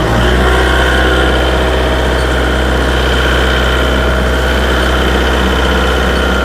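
Heavy machine engine running loud and steady, its pitch unchanging.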